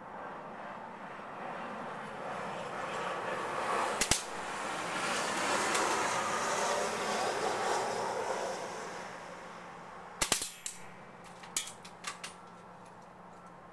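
Well L96 spring-powered bolt-action airsoft rifle firing: one sharp snap about four seconds in, then a cluster of quick clicks and snaps near the end. Under the first part, a broad rush of noise swells and fades.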